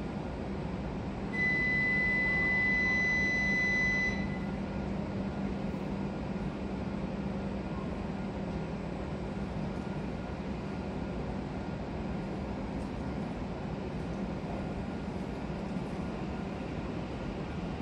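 E7-series Shinkansen train standing at the platform, its onboard equipment giving a steady hum with a low drone. About a second in, a steady high-pitched beep sounds for about three seconds and is louder than the hum.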